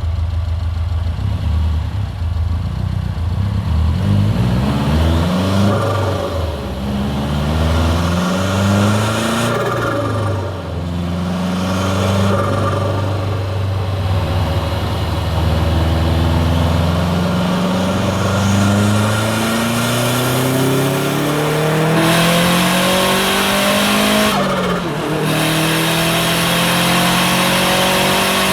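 Subaru WRX STI's hybrid-turbo flat-four engine pulling hard through the gears. Its note climbs and drops sharply at each shift several times, with one long climb in the second half. A loud hiss of turbo and external wastegate noise comes in near the end.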